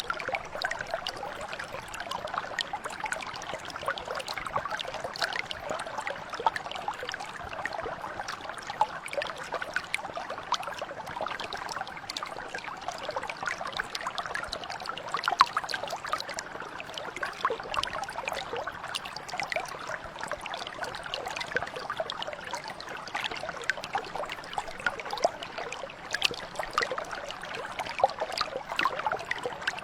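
Small mountain brook flowing over stones: a steady babble of running water, dotted with many small splashes and trickles.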